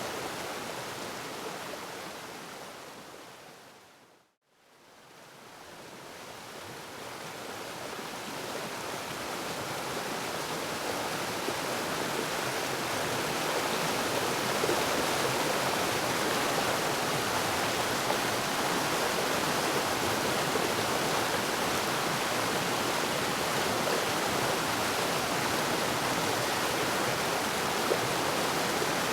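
Waterfall rushing with a steady, even noise that fades down to silence about four seconds in, then gradually fades back up to full level over the next ten seconds or so.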